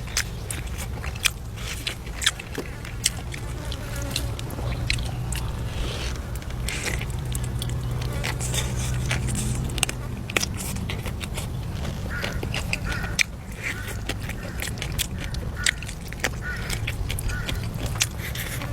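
A person eating close to the microphone: chewing and biting, with many short sharp clicks through the whole stretch, over a steady low hum.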